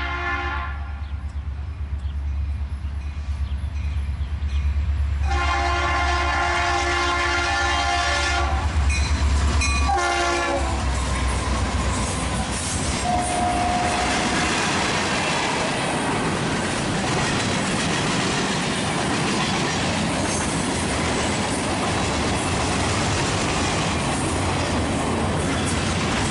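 Norfolk Southern freight train led by an EMD SD60M and a GE C44-9W sounding its air horn at a grade crossing. One blast ends just after the start, and a long blast begins about five seconds in, its pitch dropping as the locomotives pass around ten seconds in, over the deep rumble of the diesel engines. Then the freight cars roll by with steady wheel and rail noise and clickety-clack.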